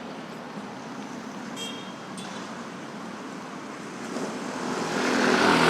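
Road traffic at a busy intersection: a steady hum of passing vehicles with a brief high tone a little under two seconds in. Near the end one motor vehicle's engine grows much louder as it comes close.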